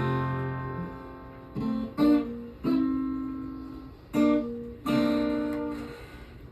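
Acoustic guitar chords struck about six times with single strums, each left to ring and fade.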